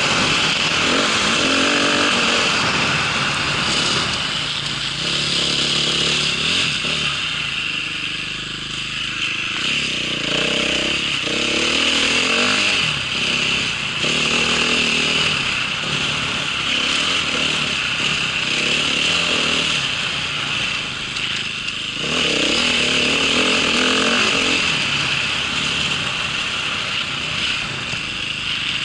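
A small vehicle engine running under load, revving up and down again and again as the vehicle is ridden, over a constant hiss.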